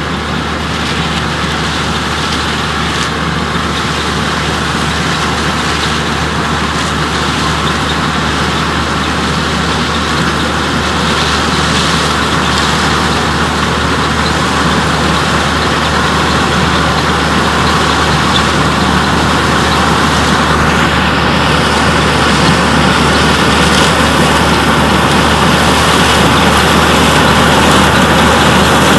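Antique 45 combine running under load while harvesting corn: a steady engine hum with the clatter of its threshing machinery, growing gradually louder.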